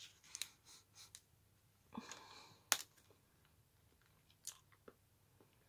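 A person biting and chewing a dark chocolate bar, faint, with scattered soft clicks and one sharper snap a little under three seconds in.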